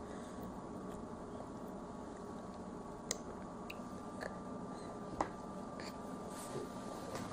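A toddler chewing a piece of grapefruit: a few faint mouth clicks and smacks, the sharpest about three and five seconds in, over a steady faint background hum.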